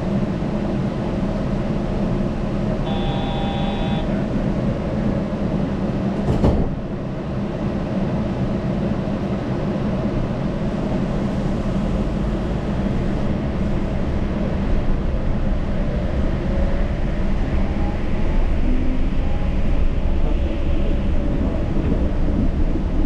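Yurikamome Line rubber-tyred automated train running with a steady low rumble. A short tonal sound, like a chime, sounds about three seconds in, and a sharp click comes about six seconds in.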